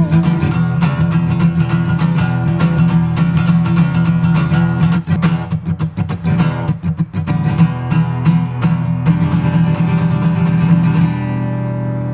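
Acoustic guitar strummed in a brisk, steady rhythm, an instrumental passage with no singing. Near the end the strumming stops and a last chord rings on.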